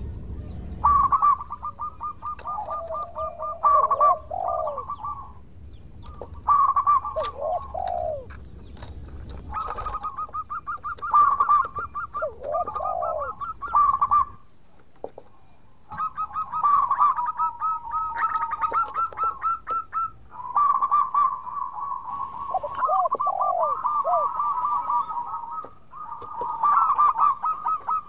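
Zebra dove (perkutut) cooing: repeated runs of rapid, trilling notes a few seconds long, separated by short pauses.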